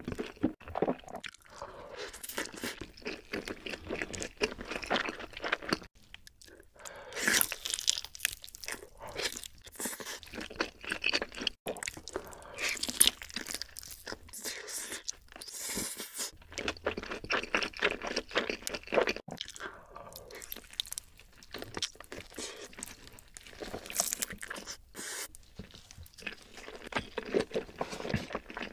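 Close-miked ASMR eating sounds: a person chewing and biting into glazed grilled chicken, with a dense run of wet, crunchy crackles throughout and a few louder bites about a quarter and halfway through.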